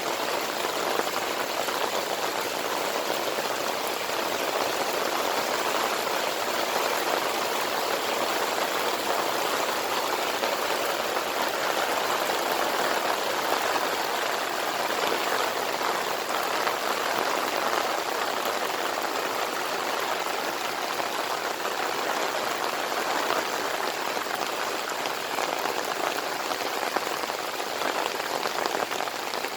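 Steady monsoon rain pouring down: an even hiss of countless drops that keeps the same level throughout.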